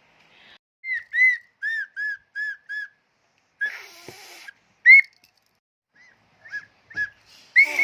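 A child blowing short toots on a whistle, each note bending up and then down in pitch: a quick run of six about a second in, then scattered toots, with a longer, louder one at the end.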